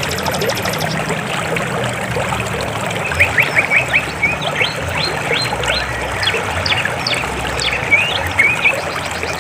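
River water flowing steadily, with birds chirping over it: a quick run of chirps about three seconds in, then scattered calls. A fast high trill stops within the first second.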